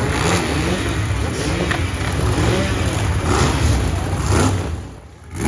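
Monster truck engine running hard at high revs, a loud rumble with shifting pitch that drops away sharply near the end.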